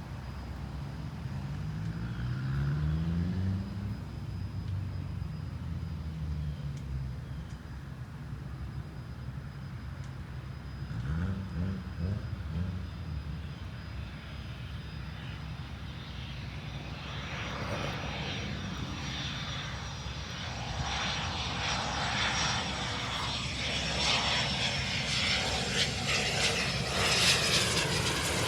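Cessna Citation I's twin Pratt & Whitney JT15D turbofans on landing approach. A low rumble in the first half gives way, from a little past halfway, to a steady high whine and a growing rush of jet noise, loudest near the end as the jet comes close.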